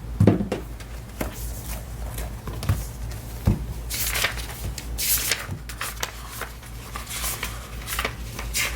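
Light household handling sounds: scattered clicks and knocks with short rustling bursts, typical of objects being handled in a kitchen.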